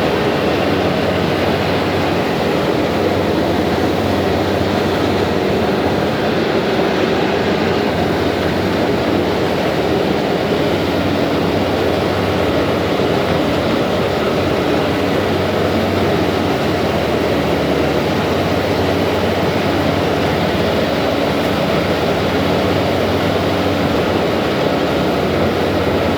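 Thames Clipper catamaran river bus under way, its engines running with a steady, loud, even drone and a constant low hum.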